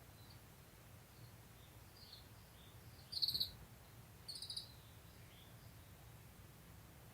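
Small birds calling: two short, loud, buzzy high calls about a second apart a few seconds in, over faint distant chirping. A faint low rumble runs underneath.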